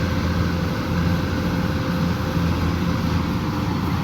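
Combine harvester engine running steadily, a constant low drone with no change in speed.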